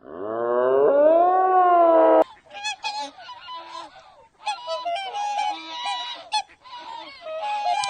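An animal calls once, long and loud, rising in pitch; the call stops abruptly about two seconds in. Many short, overlapping animal calls follow, as from a flock of birds.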